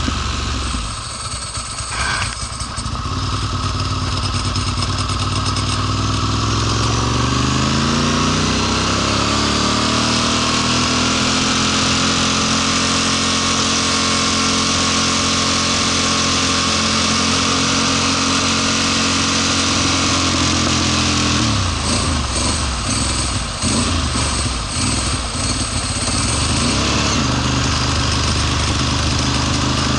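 Ducati Monster S4 motorcycle's V-twin engine under way, revving up over a few seconds and holding a steady high rpm. About three-quarters of the way through it sputters unevenly for several seconds, cutting in and out, then runs evenly again. This is the high-rpm sputtering fault that leaves the engine fluttering and sometimes dying.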